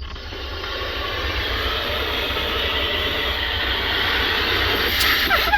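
Steady hiss of pressurised water spraying from a leaking 1/2-inch hot water line under a slab, starting suddenly and building slightly. A few short squeaks come near the end.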